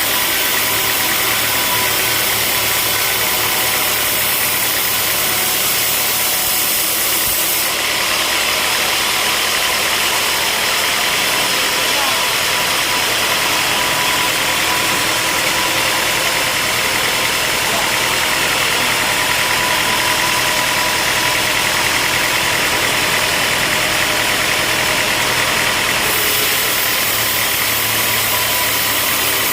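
Sawmill machinery running steadily, with a harsher, hissier sound from about eight seconds in until near the end.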